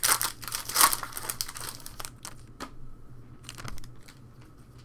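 Plastic trading card pack wrapper crinkling as it is torn open and handled, loudest in the first second, then quieter rustles and light clicks of cards being handled.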